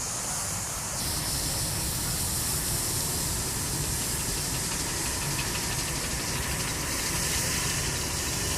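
A live-steam miniature locomotive hissing steam steadily, the hiss growing louder about a second in.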